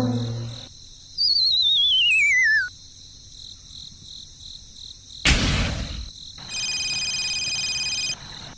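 A string of edited-in sound effects. First a wavering whistle slides down in pitch for about a second and a half. About five seconds in comes a short loud burst of noise, and near the end a steady high electronic tone holds for about a second and a half.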